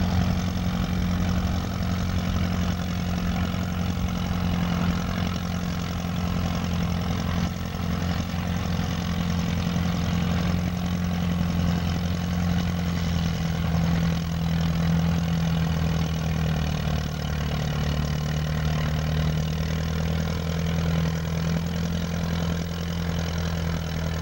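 Antique farm tractor engine running steadily at an even speed, its pitch dropping slightly about two-thirds of the way through.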